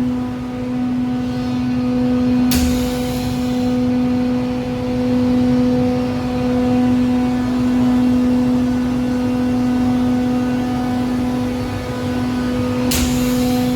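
Four-side wood moulder running with a steady hum, broken by two short hissing bursts, one about two and a half seconds in and one near the end.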